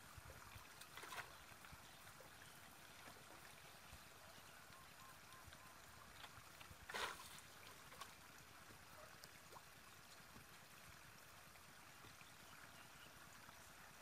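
Near silence: faint outdoor ambience, with two brief soft noises, about a second in and about seven seconds in.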